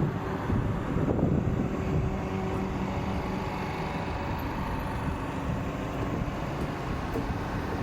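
A train running through the station: a steady rumble with a faint, even hum over it.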